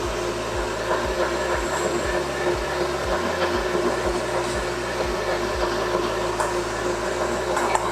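Stand mixer running steadily, beating cake batter.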